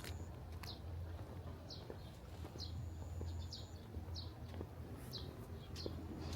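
A small bird calling with short, high, downward chirps, repeated every half second to a second. A thin, steady high note is held for about a second around the middle.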